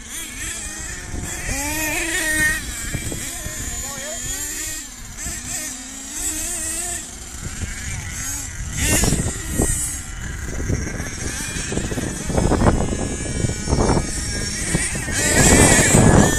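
Small two-stroke nitro engines of HPI Savage RC monster trucks running around a track, their high-pitched whine rising and falling as they rev. From about nine seconds in, louder surges come and go, loudest near the end.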